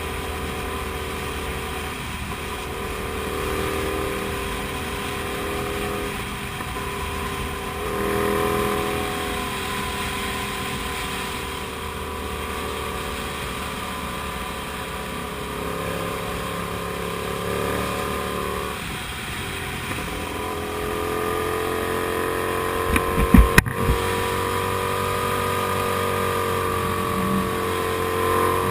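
Comet GTR250 motorcycle's 250 cc V-twin engine running while riding, its pitch rising and falling with the throttle and gear changes, over wind rush. A few sharp thumps come about 23 seconds in.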